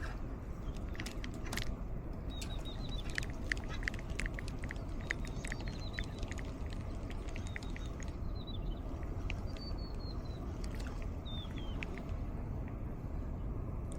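Steady breeze rumbling on the microphone, with wild birds calling over it: quick high chirps and clicks through the first half, then a few short falling whistled notes.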